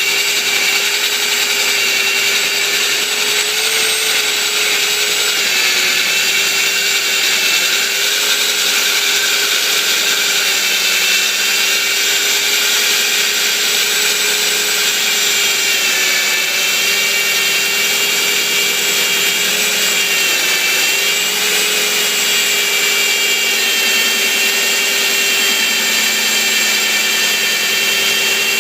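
Industrial metal-drilling machine running steadily, its electric motor giving a constant whine that wavers slightly in pitch.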